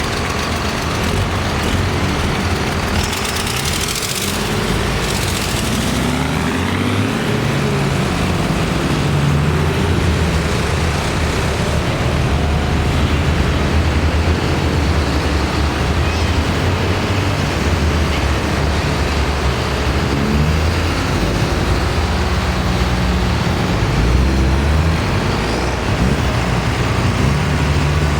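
Tractor engines running in a procession, a loud low rumble whose pitch rises and falls as they drive along, with a short hiss about four seconds in.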